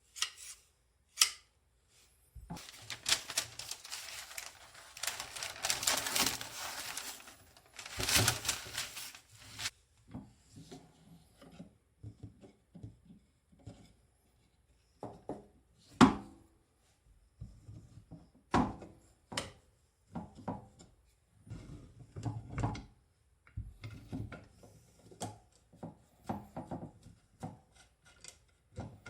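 A pair of hedge shears being handled and worked on: about seven seconds of scratchy rubbing, then a long run of separate metal clicks and knocks, one louder clack about halfway through.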